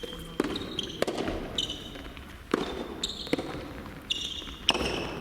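Soft tennis rally: about five sharp strikes of the rubber ball on rackets and the court, spaced roughly a second apart, with shoes squeaking on the court floor between them.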